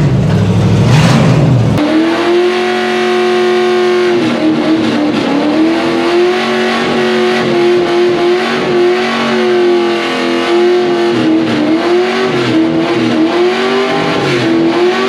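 An engine held at high revs, its pitch steady with small dips. It starts abruptly about two seconds in, replacing a deeper, louder sound.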